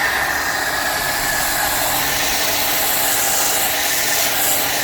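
Ryobi 2400 W electric pressure washer running and spraying through a snow foam cannon on a short gun: a loud, steady hiss of spray with a faint motor hum underneath.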